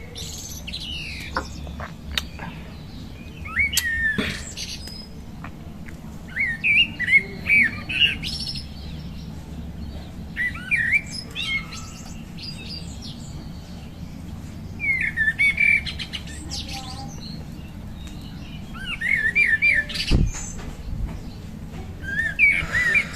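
A songbird singing short phrases of quick, warbling chirps, repeated every three to four seconds over a steady low hum, with one brief low thump near the end.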